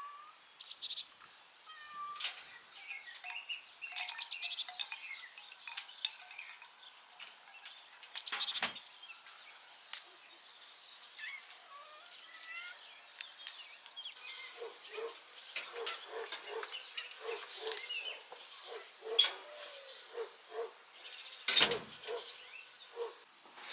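Songbirds chirping and singing, many short calls, with a few sharp clicks and two louder thumps. About halfway through, a run of soft, evenly spaced knocks starts up beneath the birdsong.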